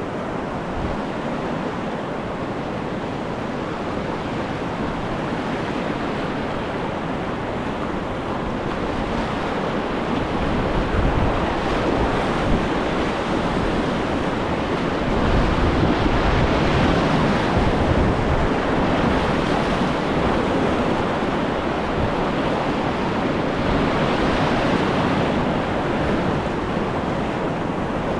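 Rushing whitewater of a river rapid, a steady roar of water that swells louder about ten seconds in.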